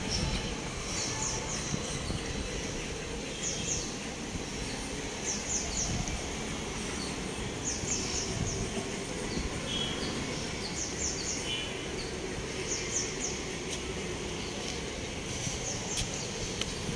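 Small birds chirping in short, high, quick clusters every second or two, over a steady low background rumble.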